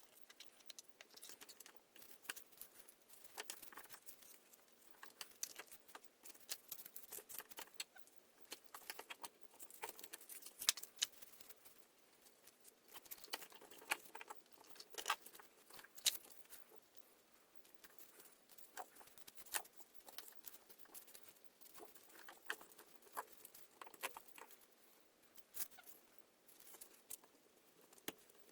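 Irregular light clicks and taps, as of small metal and plastic parts being handled during carburetor work on a Poulan 220 Pro chainsaw.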